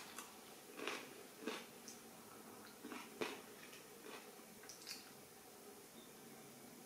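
Faint chewing, with a few soft clicks and taps spread through, the clearest about three seconds in.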